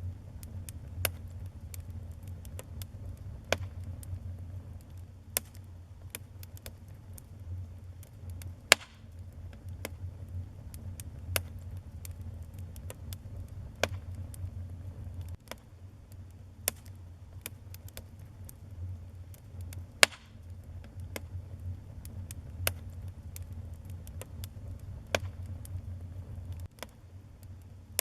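Wood fire burning in a fireplace: irregular crackles and sharp pops of the burning wood over a steady low rumble of the flames. A few pops stand out louder, the loudest about nine seconds in and again about twenty seconds in.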